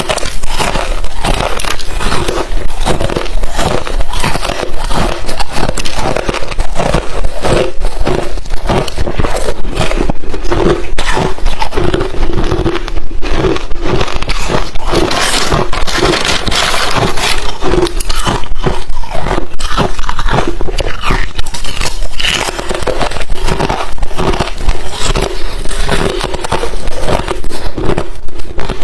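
Close-up crunching of crushed, refrozen ice chips being bitten and chewed, a dense run of sharp crackles and snaps.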